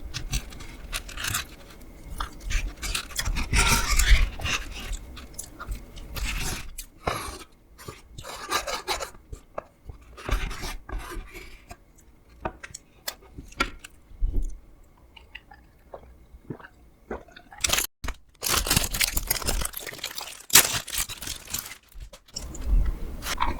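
Close-miked eating sounds: a person chewing, with irregular crunches and scrapes, quieter for a few seconds in the middle and busier again near the end.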